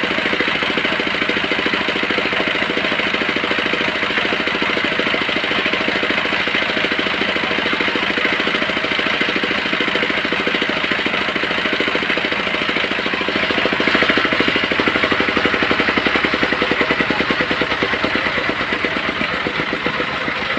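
Portable sawmill's engine running steadily with a fast, even pulsing, getting a little louder about fourteen seconds in.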